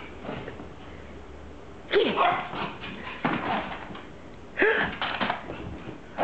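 Dog barking in short outbursts: a loud bark about two seconds in and another near five seconds, each followed by quieter barks.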